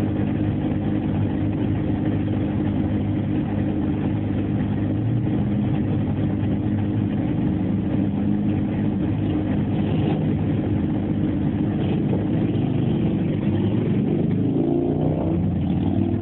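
A motor vehicle's engine running steadily, its pitch rising near the end as it speeds up.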